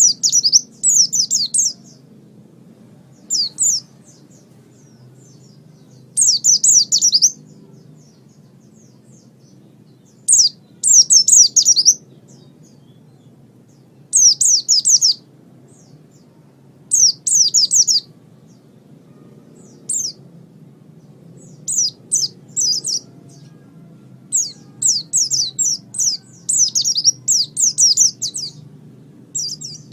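Pleci (white-eye) singing: short bursts of rapid, high twittering chirps separated by pauses of one to three seconds. The phrases come closer together in the last third. A faint steady low hum lies underneath.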